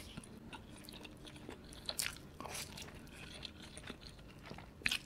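Close-miked eating sounds of a cheese-covered dumpling being bitten and chewed: soft, sticky chewing with scattered faint wet clicks and smacks.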